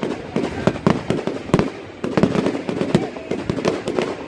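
Fireworks going off in quick succession: a rapid series of bangs and crackles, with one louder bang about a second and a half in.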